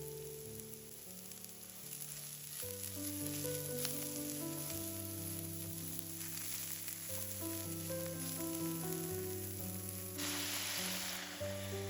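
Food sizzling as it fries in a pan, a steady hiss that grows louder for about a second near the end, over background music.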